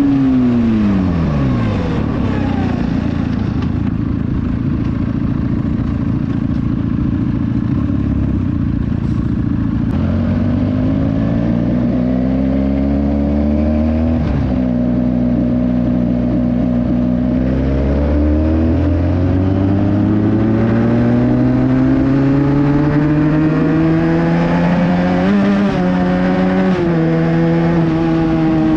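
Benelli 300i motorcycle's parallel-twin engine through a loud aftermarket exhaust while riding. The pitch drops off in the first couple of seconds as it slows, holds low, then climbs as it accelerates, with brief dips at gear changes around 14, 25 and 27 seconds in. It ends pulling steadily at higher revs.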